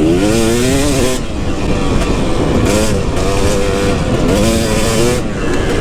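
KTM 250 SX two-stroke motocross engine revving hard, its pitch rising and falling again and again with the throttle.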